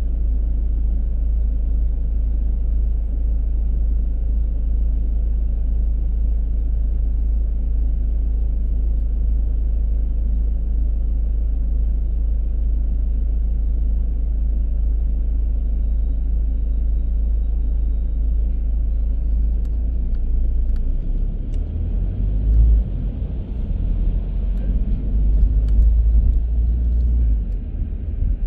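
Car driving, with a low, steady road and engine rumble; about two-thirds of the way in the rumble turns uneven and bumpy, with a few louder low jolts.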